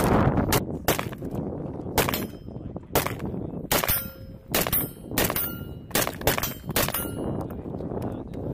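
About a dozen rifle shots fired at an irregular pace, some in quick pairs, with a short metallic ring after several of them.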